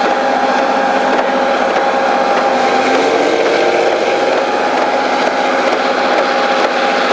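Train running past: a loud, steady rush of machinery with several held tones, and a short tone that bends in pitch about three seconds in.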